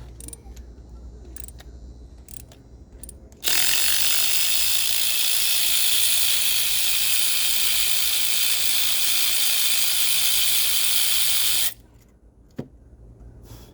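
A few sharp clicks, then a power ratchet runs loud and steady for about eight seconds and cuts off suddenly, followed by one more click.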